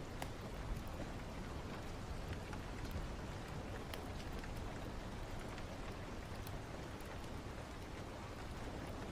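Steady rain falling, with a low rumble underneath and a few scattered sharp crackles.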